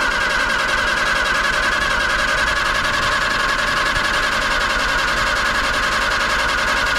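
Allis-Chalmers WD45's four-cylinder gasoline engine being cranked steadily by its starter without firing. The engine does not catch, which the owner puts down to flooding it and a suspected lack of spark.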